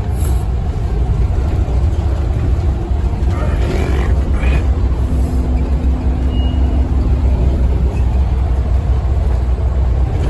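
Scania N230UD OmniCity double-decker bus under way, heard from inside the cabin: a steady low rumble of its five-cylinder diesel engine and road noise. There are a few brief rattles about four seconds in, and a steady hum holds for a couple of seconds around the middle.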